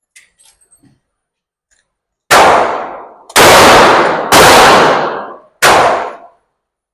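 A few faint clicks, then four handgun shots about a second apart, each ringing out in the reverberant indoor range.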